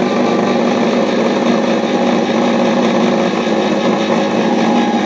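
Electric can opener running with a steady motor hum as it cuts around the lid of a can.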